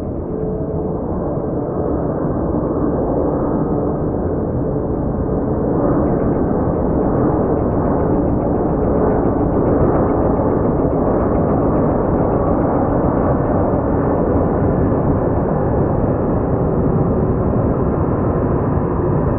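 Jet airliner engines, a loud, continuous low rumble as the aircraft takes off or passes, swelling about six seconds in and staying strong.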